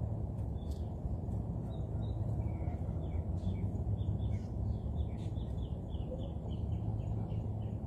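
Small birds chirping over a steady low rumble, with a quick run of repeated high chirps, several a second, in the middle.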